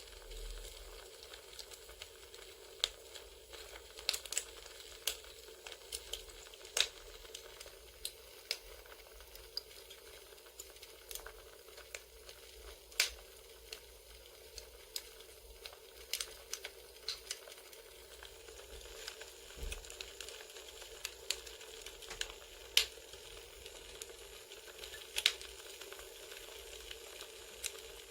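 Crackling campfire ambience: a steady soft hiss with irregular sharp pops and snaps of burning firewood.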